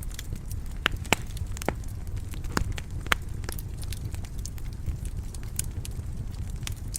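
Wood fire crackling in a stone fireplace: irregular sharp pops and snaps over a low steady rumble of the flames, the loudest pops a little under a second in, just after a second, and around two and a half and three seconds in.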